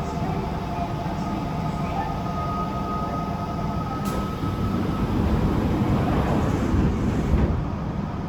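Cabin noise inside a Chiba New Town Railway 9100-series electric train with Toyo GTO-VVVF traction equipment. A steady rumble runs under several held electrical whine tones, with a single click about halfway. The rumble grows louder in the second half and eases near the end.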